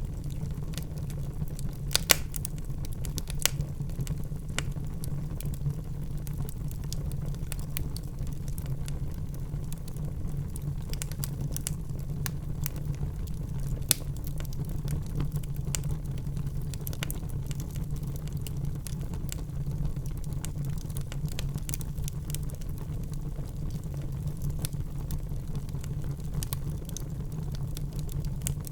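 Log fire burning with a steady low roar of flames and scattered sharp crackles and pops, the loudest about two seconds in and again near the middle.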